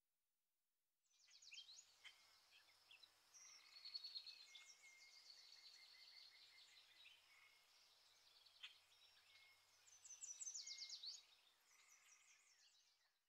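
Faint birdsong: chirps, rapid trills and short held whistles from small birds. It starts about a second in and stops just before the end.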